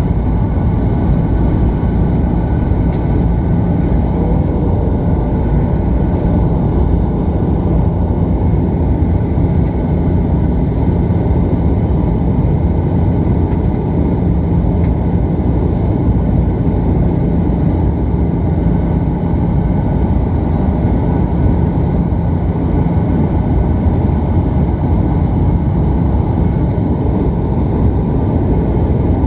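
Steady drone of a Bombardier Dash 8 turboprop's engines and propellers heard inside the cabin, with a low hum running under it that weakens about three-quarters of the way through.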